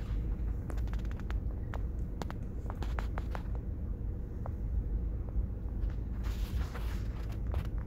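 Freight train of tank cars rolling past a grade crossing: a steady low rumble with many irregular sharp clicks and clanks from the wheels and cars, thickest during the second and third seconds and again near the end.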